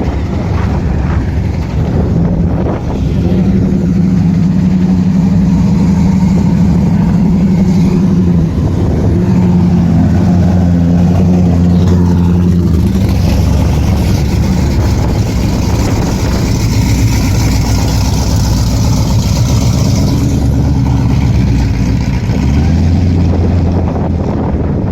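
A vehicle engine running steadily, its note shifting up or down a few times.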